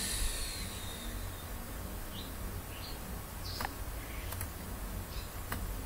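Steady faint room noise with a few brief, high, faint chirps, a small bird's calls, and a couple of light clicks. A faint high tone fades out in the first second or so.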